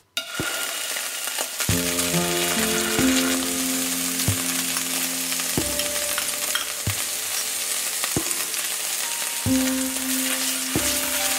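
Oil sizzling in a non-stick frying pan as crushed garlic, ginger and gochujang fry in it, with a wooden spoon stirring the paste near the end and a few soft knocks. Soft background music with held chords comes in about two seconds in.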